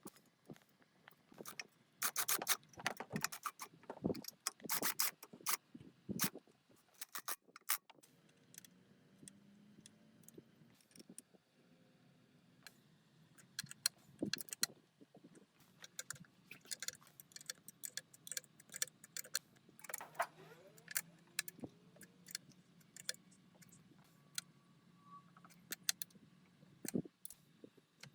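Irregular clinking and tapping of small metal parts and hand tools being handled, heaviest in the first few seconds, over a faint low hum.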